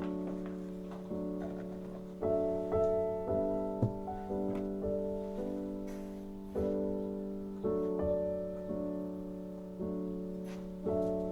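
Background piano music: soft chords struck about once a second, each left to ring and fade.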